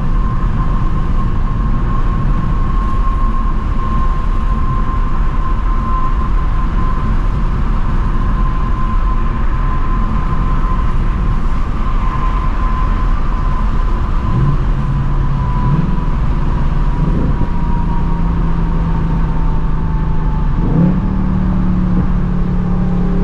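2024 Ford Mustang GT's 5.0 L V8 with stock active exhaust, driving at a steady cruise over constant road rumble and a faint steady whine. In the second half the engine note climbs in a few short steps as the car picks up speed.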